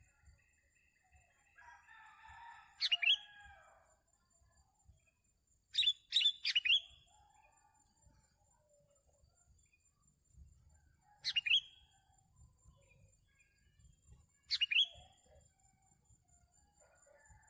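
Sooty-headed bulbuls calling with short, sharp call notes: one about three seconds in, a quick run of three around six seconds, then single calls near eleven and near fourteen and a half seconds. Softer warbling comes just before the first call.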